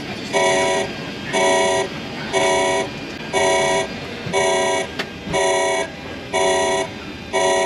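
An alarm horn pulsing about once a second, each blast a half-second chord of several tones, over a steady rushing background noise.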